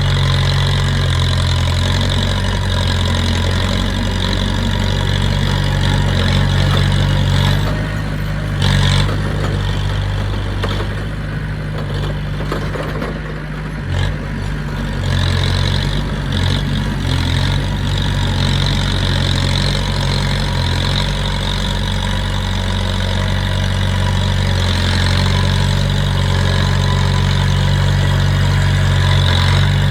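Diesel engine of heavy earthmoving equipment running steadily, with a couple of short knocks partway through.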